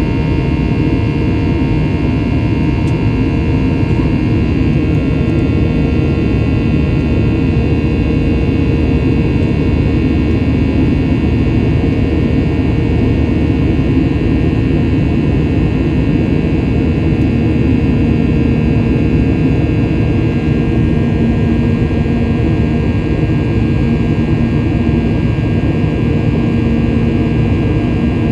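Boeing 737-800's CFM56-7B jet engines heard from inside the cabin: a steady loud rumble with several steady whining tones over it, and a low hum that grows stronger in the last third.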